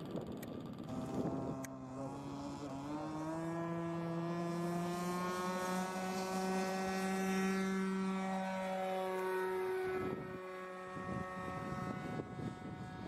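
Model tow plane's OS 61 two-stroke glow engine throttling up from idle, its pitch rising over the first few seconds. It then runs steadily at high revs for the aerotow until it drops away about ten seconds in, leaving wind noise on the microphone.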